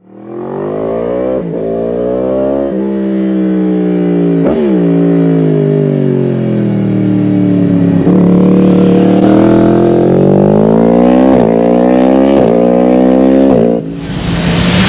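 2020 Yamaha MT-10's crossplane inline-four running through an Arrow decat mid-pipe and end can, its exhaust note sliding slowly down and then up, broken by short dips every second or two. The engine sound drops away suddenly near the end.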